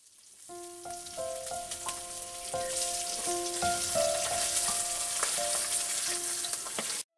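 Food sizzling in hot oil in a metal karahi, with the spatula scraping and turning the pieces. Soft background music with slow held notes plays along. The sound fades in and cuts off abruptly near the end.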